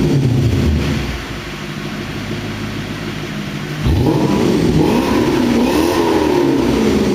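Lexus SC400's V8 through a 5Zigen Fireball Mega aftermarket exhaust, revved while stationary. It falls back to idle in the first second and idles for about three seconds, then is blipped sharply and held up, the revs rising and falling twice before easing off near the end.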